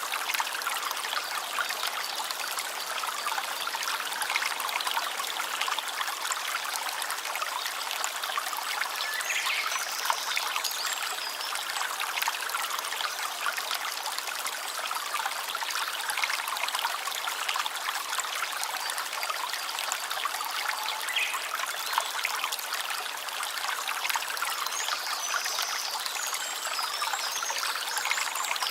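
A small stream trickling steadily.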